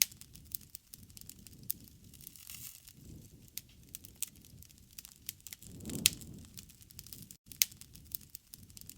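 Wood campfire crackling, with irregular sharp pops over a low rumble of flames that swells now and then.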